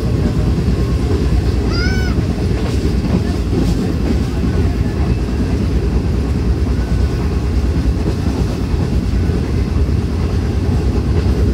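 Passenger train running along the track: a loud, steady low rumble of wheels on rails, with some faint clicks of rail joints.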